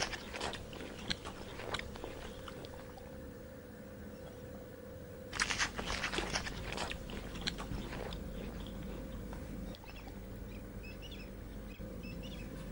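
An animal chewing: rapid crunching clicks at the start and again in a second burst about five seconds in. Faint, short, high chirps follow near the end.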